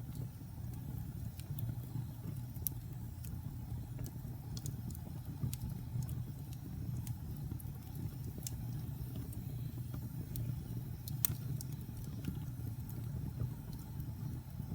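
Wood logs burning in a fireplace: a steady low rumble of the flames with scattered sharp crackles and pops, one louder pop about eleven seconds in.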